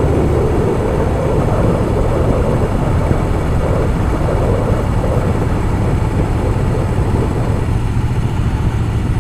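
Harley-Davidson Softail Fat Boy's V-twin engine running steadily while riding, with a loud rush of wind on the microphone.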